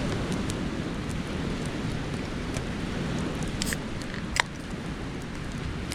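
Wood bonfire burning with a steady rush and a few sharp crackles and pops, the loudest about four and a half seconds in.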